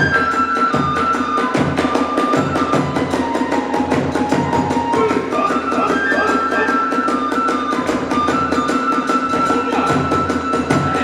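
Hiroshima kagura festival music: a bamboo flute plays a held, stepping melody over fast, steady clashing of hand cymbals and the beat of a large drum.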